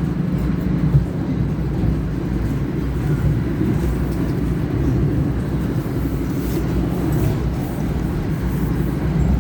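Steady low rumble of a passenger train running, heard from inside the carriage, with a brief knock about a second in.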